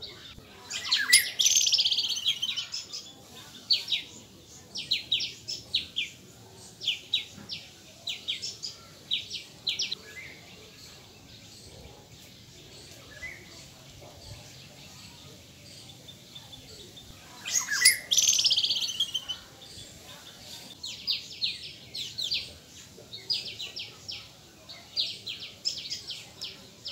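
Birds chirping: short, high chip notes in quick series, with two louder trilled calls that fall in pitch, one about a second in and one about eighteen seconds in.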